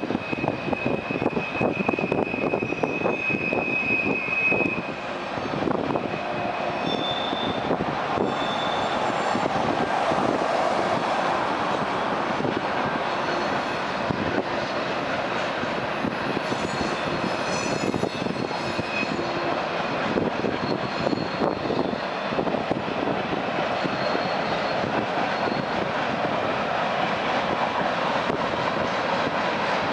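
Train passing, with a steady rumble and clatter of wheels on the rails. High-pitched wheel squeals ring out for the first few seconds and briefly again a few seconds later.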